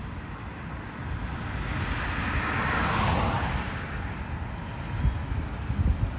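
A road vehicle passing by: tyre and engine noise swells to a peak about three seconds in, then fades away. Low wind thumps on the microphone come near the end.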